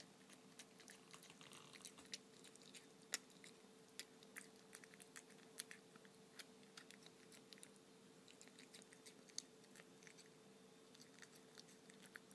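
Toothless Persian cat licking and gumming wet cat food off a shallow dish: faint, irregular wet smacking and clicking, several a second, over a low steady hum.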